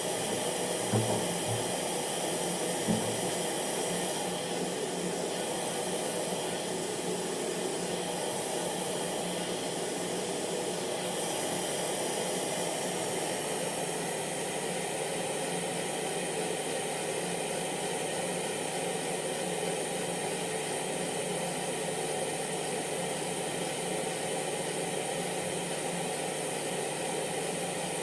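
Electric hair dryer running steadily: rushing air with a motor hum. Two brief low bumps come about one and three seconds in.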